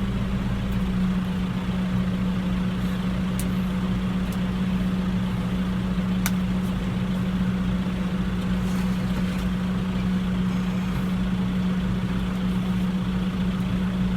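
Tractor engine running at a steady speed, a constant low drone that does not rise or fall.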